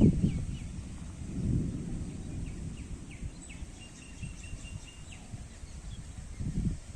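Outdoor ambience: a low, uneven rumbling noise with faint, short bird chirps and a brief thin whistled note in the middle.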